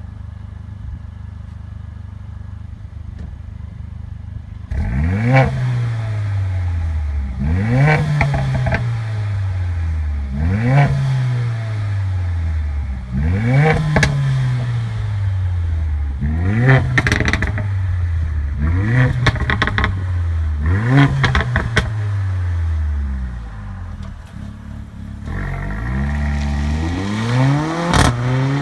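Mercedes-AMG CLA 45's turbocharged 2.0-litre four-cylinder with a performance exhaust idling, then blipped about eight times, each rev rising fast and falling back slowly with popping and crackling on the overrun. Near the end it is held higher for longer before dropping back with more pops.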